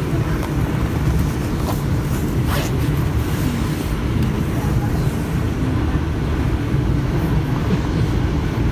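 Interior running noise of an Alstom Régiolis regional train travelling along the line: a steady low rumble from the wheels and track, with a few faint ticks about two seconds in.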